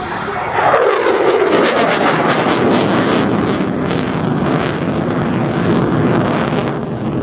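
F-16C fighter jet's engine at high power as the jet passes, its pitch sweeping down about half a second in, followed by a loud, steady, rough rumble.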